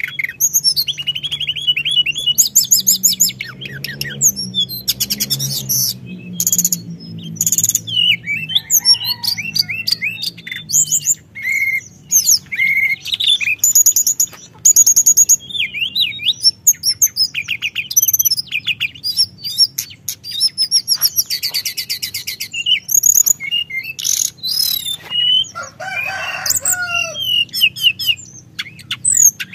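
Teledekan gunung songbird singing nonstop in long rolls of rapid, high-pitched trills and chirps, phrase after phrase with only brief breaks.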